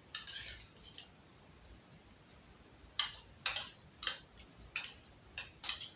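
Wood fire in a fireplace crackling, with scattered sharp pops: a few in the first second, then about eight in the last three seconds.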